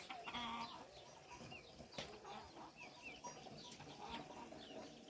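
Domestic chicken clucking briefly near the start, with small birds giving short high chirps now and then.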